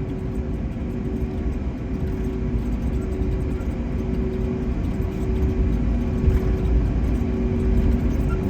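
Steady cabin noise inside an Airbus A321neo after landing: a low rumble under a constant two-tone hum.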